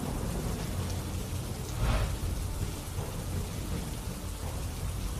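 Heavy rain falling with a low rumble of thunder, which swells briefly about two seconds in.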